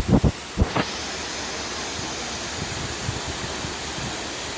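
Waterfall rushing steadily, a loud even hiss that sets in just under a second in, after a few knocks at the start.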